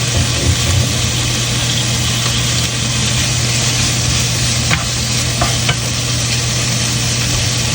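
Bacon, onion and button mushrooms sizzling in olive oil in a frying pan, with a few light clicks of a utensil stirring against the pan about two-thirds of the way through. A steady low hum runs underneath.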